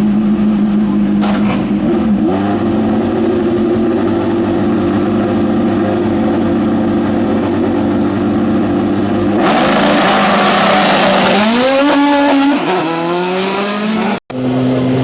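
Racing car engine held at a steady idle. About nine seconds in, a loud, rough engine sound comes in as a car accelerates hard, its revs climbing several times in a row as it shifts up. Near the end the sound cuts off suddenly, and another engine idles at a steady pitch.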